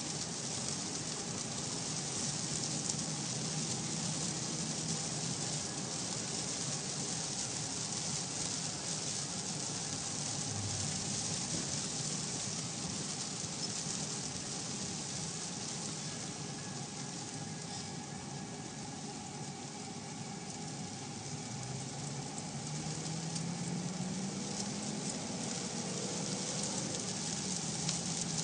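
Heavy rain hissing steadily on a car's roof and windshield, heard from inside the moving car along with road noise. A low hum from the car rises in pitch in the later part, as it speeds up.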